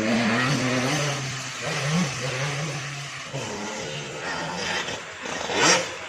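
Grasstrack motorcycle engine running, its pitch dropping about a second in and wavering before it fades, with a loud rush of noise near the end.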